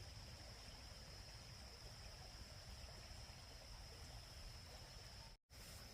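Faint, steady high-pitched chirring of insects over a quiet low background hum, cutting out completely for a moment about five seconds in.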